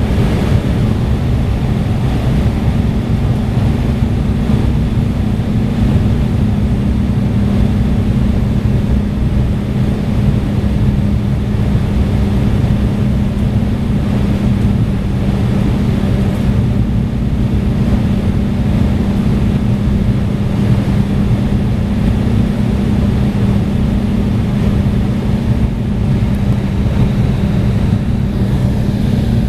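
Steady drone of an Embraer E175 airliner in flight, heard from the passenger cabin: the constant hum of its CF34 turbofans under the rush of air past the fuselage, unchanging throughout.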